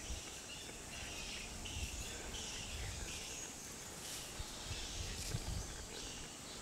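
Outdoor wildlife ambience: birds calling in short, repeated chirps, over a low, uneven rumble.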